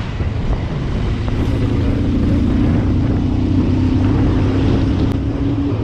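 Motorcycle engine running steadily under way, with a constant low drone and wind and road noise.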